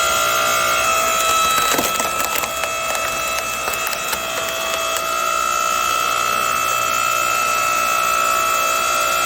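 8-ton hydraulic log splitter running with a steady whine while a log cracks and splinters apart under the ram, crackling from about two seconds in for a couple of seconds. The whine drops slightly in pitch while the wood is under load and steps back up about five seconds in once the log has split.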